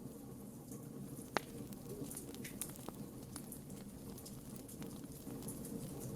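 Campfire crackling: scattered sharp pops and snaps of burning wood over a low steady rumble, with one louder pop about a second and a half in.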